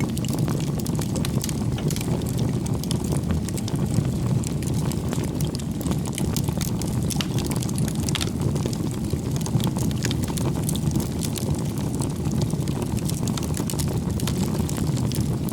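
Firewood burning in a bonfire: a steady low rumble of the flames with frequent sharp crackles and pops scattered throughout.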